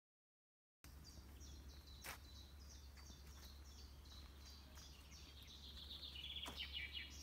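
Faint songbird song: a run of short, high repeated notes, then a quicker trill that falls in pitch near the end. A steady low hum lies underneath, with a couple of clicks.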